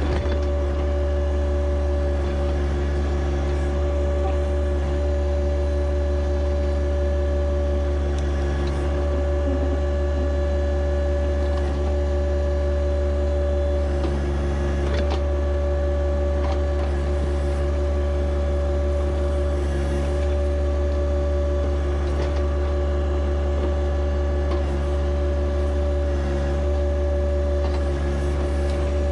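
John Deere 1025R compact tractor's three-cylinder diesel engine running steadily while the 260B backhoe is worked, a low drone with a steady whine over it and a few faint knocks.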